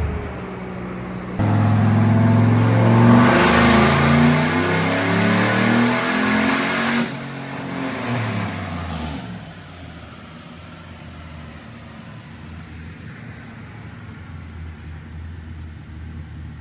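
Turbocharged OBS Ford truck's engine doing a full-throttle dyno pull on the rollers: it comes on hard about a second and a half in, revs climb steadily for several seconds, then the throttle is let off and the revs fall back to a low idle. The engine is breaking up near the top end, which the crew suspects is the boost blowing out the spark.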